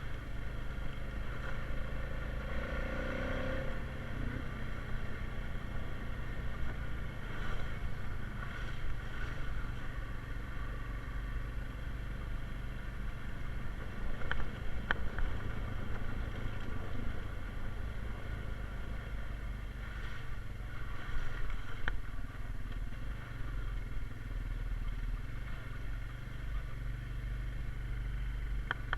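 Honda Rubicon 520 ATV's single-cylinder engine running steadily at a low, even speed on a trail ride. A few short sharp clicks, like stones or parts knocking, come through around the middle and again near the end.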